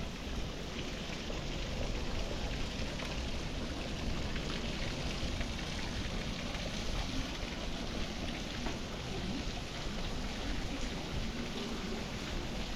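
Steady city-street ambience: an even, rain-like hiss with no distinct events.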